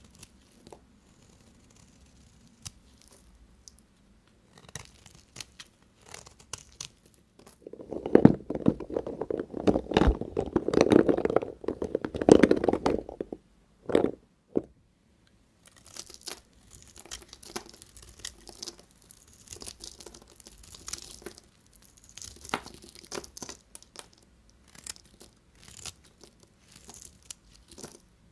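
A knife cutting through bars of dry soap. Scattered small crunches and scrapes give way, about eight seconds in, to around five seconds of loud, dense crunching, with one short crunch just after it. Lighter crumbling and scraping follows.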